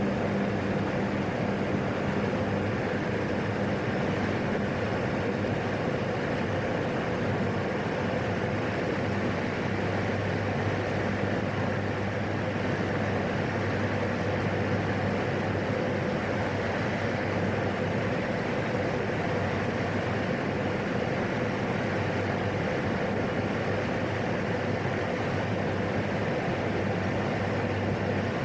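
Single turboprop engine of a PAC 750XL running steadily on the ground, heard as a constant drone through the cockpit intercom. One low hum fades about five seconds in while a deeper hum grows stronger about ten seconds in, a small change in engine or propeller speed.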